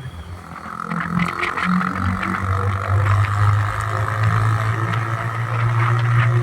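Honda CBR 150 motorcycle exhaust, its single-cylinder four-stroke engine running. The note dips at first, builds back, then holds a steady low drone from about halfway through.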